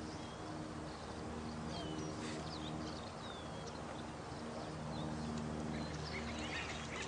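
Night nature soundscape: a steady wash of running water, with small birds giving short high chirps and whistles over low, drawn-out animal calls that swell and fade every few seconds.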